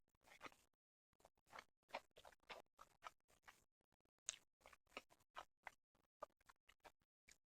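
Close-miked chewing of sushi: a quick, irregular run of soft wet mouth clicks and smacks, several a second.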